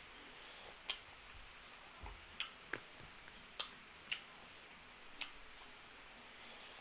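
Faint eating sounds: about six short, sharp clicks and smacks from chewing, scattered and irregular, with a soft low thump about two seconds in.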